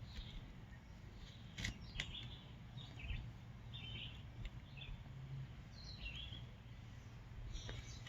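Faint bird chirps: short, high calls scattered about once a second, over a low steady hum and a couple of soft clicks.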